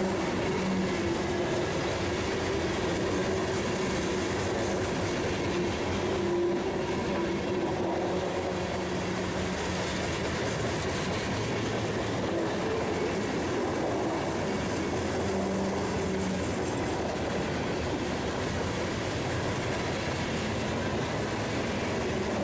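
Cars of a long freight train rolling past, steel wheels running on the rails with a steady, even noise.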